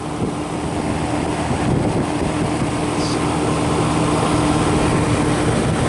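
Walk-in freezer condensing unit running: the 1-horsepower KAJB-010E refrigeration compressor hums with a steady tone, under the rush of air from the condenser fan, as the system pulls the freezer down to temperature.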